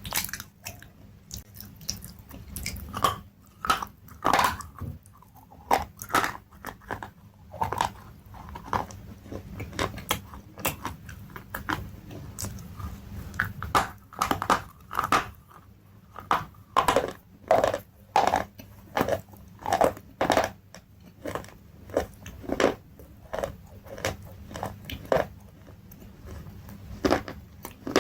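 Crunchy food being bitten and chewed close to the microphone: a long run of sharp crunches, irregular and coming faster in the middle.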